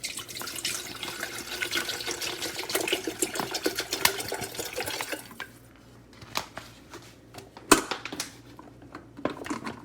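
Water running into a stainless steel electric kettle, filling it, for about five seconds. Then a few light clicks and one sharp knock.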